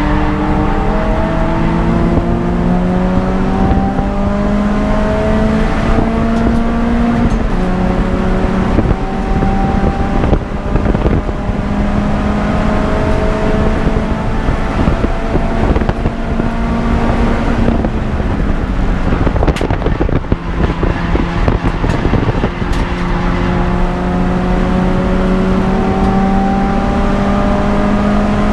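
Peugeot 206 GTI's four-cylinder engine running hard on track, its pitch climbing slowly in long pulls and dropping back at gear changes a few times, with a rougher stretch and a few knocks about two-thirds of the way through.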